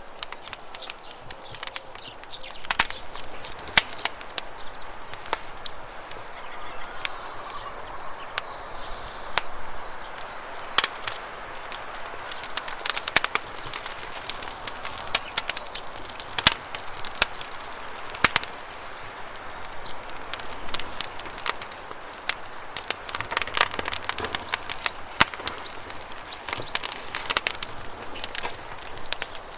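Wood campfire crackling, with sharp irregular pops scattered throughout, over a steady rush of flowing water. A faint high, thin bird call comes in twice, about seven seconds in and again near fifteen seconds.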